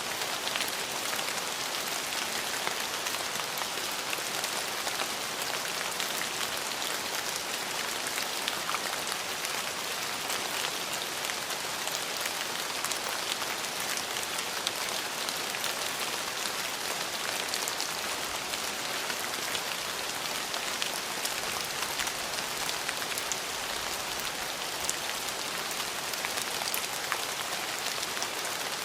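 Steady rain falling, a constant hiss with many fine, close drop patters and no break.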